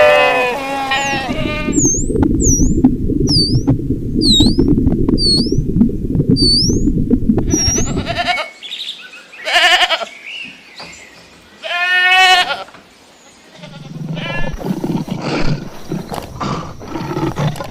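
Livestock bleating in separate drawn-out calls, a few seconds apart. Between the calls there is a rough low rumbling noise, and over it a run of about ten short high chirps, a little under two a second.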